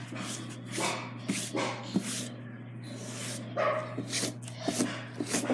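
A dog barking in a string of short, separate yaps.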